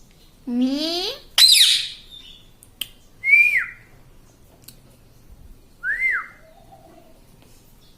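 A pet ringneck parrot calling: a rising squawk and a loud harsh screech close together near the start, then two short whistled calls that rise and then fall, about three and six seconds in.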